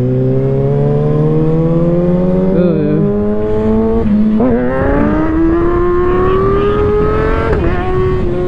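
Kawasaki ZX6R 636's inline-four engine accelerating through the gears: the pitch climbs steadily, then drops at upshifts about three seconds in, about four seconds in and again near the end, with wind rush underneath.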